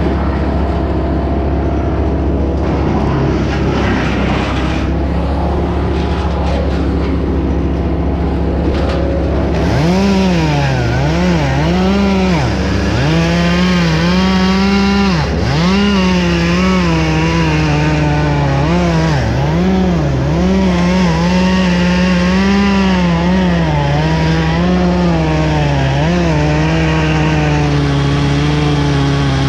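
Gasoline chainsaw running: a steady engine note for about the first ten seconds, then the throttle repeatedly revving up and dropping back, the pitch swinging up and down as the saw cuts.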